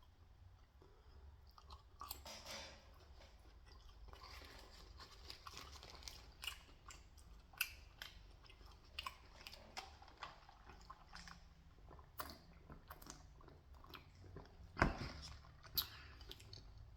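A person chewing food close to the microphone, with soft crunches and small mouth clicks scattered throughout and a sharper click near the end.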